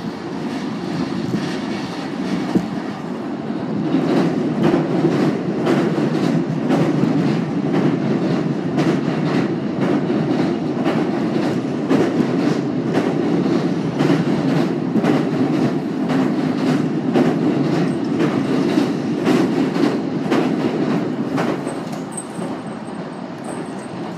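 Commuter electric train heard from inside the carriage while running at speed: a steady wheel-on-rail rumble with a regular clatter of wheels over rail joints. It grows louder about four seconds in as the train crosses a steel river bridge, and eases off again near the end.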